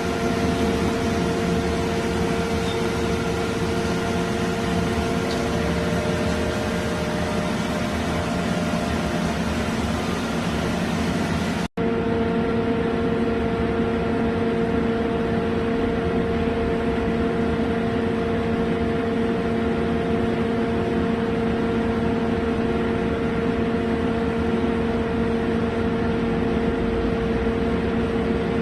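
Steady electric-machine hum of a Mitsubishi horizontal floor-type CNC boring mill under power, a constant drone with a steady tone over even mechanical noise.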